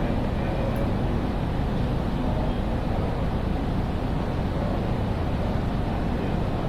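Steady ambience of a large railway station hall: a continuous low rumble and hum, even in loudness, with no distinct events.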